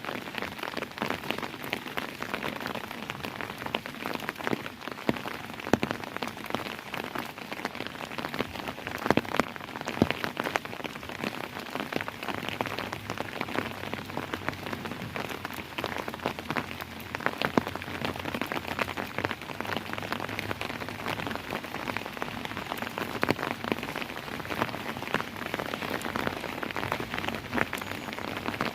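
Steady rainfall with many close, distinct drops pattering and tapping on a hard surface.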